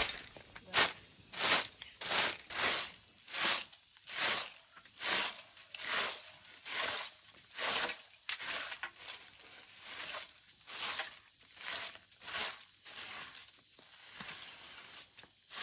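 Footsteps on a dry, gritty path: an even walking rhythm of scuffing steps, about three every two seconds.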